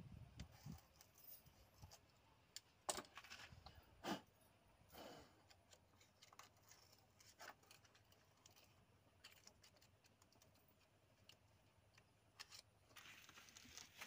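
Near silence, broken by a few faint, sharp clicks and scrapes, the loudest about three and four seconds in.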